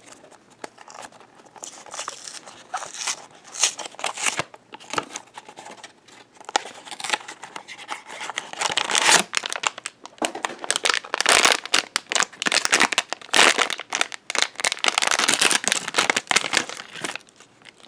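Blind-box packaging being opened by hand: a small cardboard box and the foil pouch inside crinkling, crackling and tearing in irregular bursts, busier in the second half.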